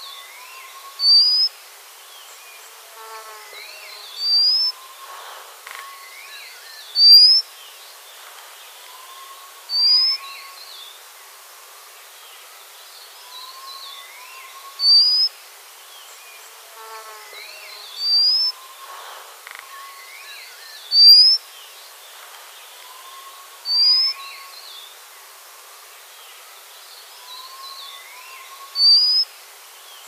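White-capped redstart calling: short, thin, rising whistles, nine of them a few seconds apart, over fainter bird chirps and a steady hiss.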